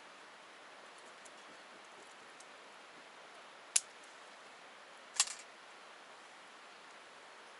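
Wood campfire crackling with a steady low hiss and faint ticks, then two sharp loud pops about a second and a half apart, the second followed by a short flurry of smaller crackles.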